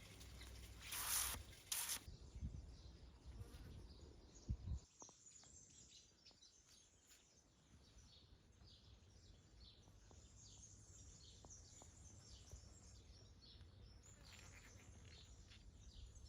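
Faint bird chirping in quick, short high notes, repeated many times. In the first few seconds a couple of brief noisy rustles and a low rumble sit under it.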